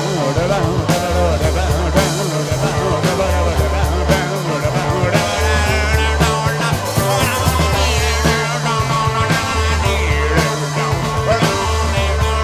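Live psychedelic rock band playing an instrumental passage: a low bass figure repeating about every two seconds under wavering, bending guitar lines and drums.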